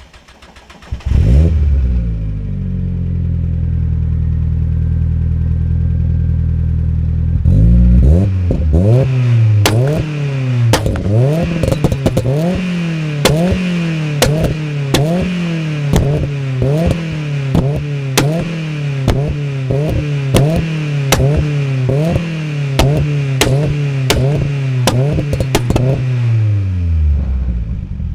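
Turbocharged 1.6-litre Mazda MX-5 NB engine with a GT3582 turbo, heard through a home-built straight 2.5-inch exhaust with one muffler. It comes in about a second in and settles to idle, then is revved again and again, about once a second, with sharp cracks and a high whine over the revs, before falling back to idle near the end.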